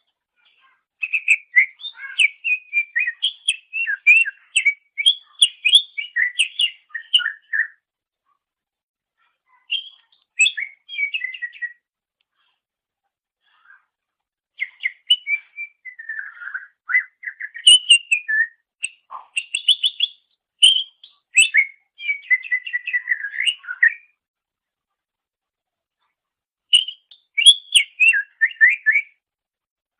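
Green leafbird (cucak ijo) singing in phrases of quick, varied chirps and whistles, with silent pauses between them: one phrase of several seconds near the start, a short one about ten seconds in, a long one in the middle, and a short one near the end.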